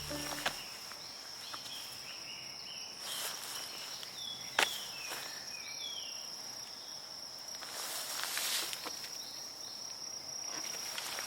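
Forest ambience dominated by a steady, high-pitched insect trill, with a few short chirping calls near the middle. A single sharp click comes about halfway, and there are bursts of rustling like footsteps in undergrowth, most noticeably late on.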